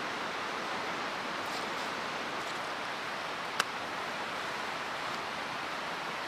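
Steady rushing of a mountain stream, with a single sharp click a little past halfway.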